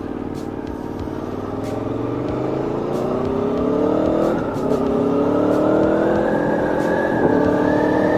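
Aprilia Tuono V4 motorcycle's V4 engine pulling under acceleration, its pitch rising steadily, then dropping at a gear change about four and a half seconds in and climbing again.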